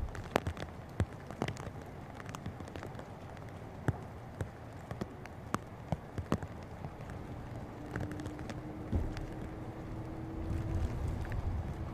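Outdoor storm ambience: wind buffeting the microphone with a low rumble that swells near the end, and scattered sharp clicks and taps throughout. A faint steady hum comes in past the halfway point.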